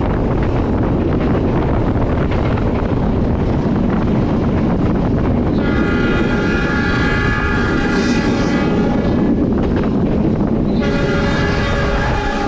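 Passenger train running with a steady rumble while a train horn sounds two long blasts: one starting about six seconds in and lasting about four seconds, the second starting about a second after it ends and running on.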